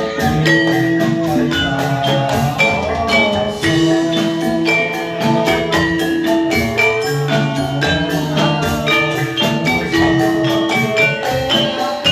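Javanese gamelan music for jathilan: struck metallophones ring out a dense, steady pattern of held notes over hand drums, with a wavering melody line weaving above.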